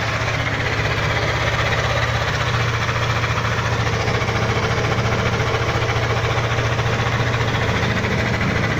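Yamaha Aerox 155 scooter's single-cylinder four-stroke engine running at a steady speed with a fast, even pulse. The owner takes it for an unusual engine noise.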